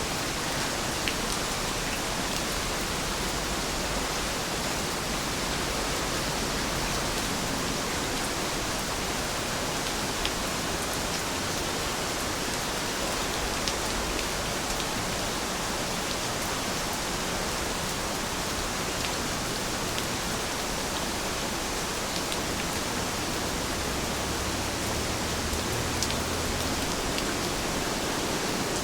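Steady rain falling, a dense even hiss with a few faint drip ticks.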